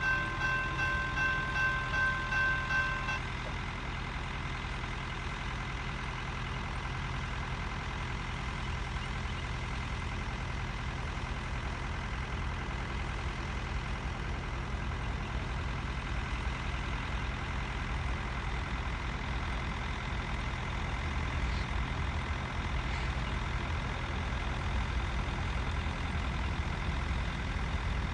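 A railroad crossing bell rings in quick, even strokes for about three seconds and then stops. A steady low vehicle rumble carries on after it.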